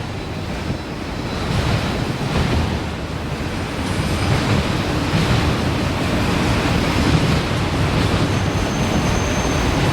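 Freight train cars rolling past with a steady rumble and rail noise, mixed with wind on the microphone. A faint high squeal near the end.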